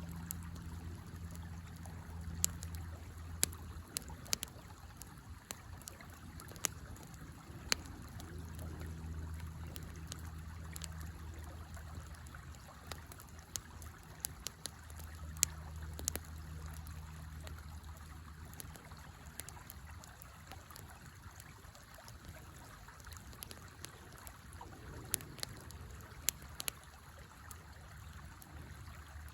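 Wood fire crackling with sharp, scattered pops over the steady flow and trickle of a river. A low rumble swells and fades several times underneath.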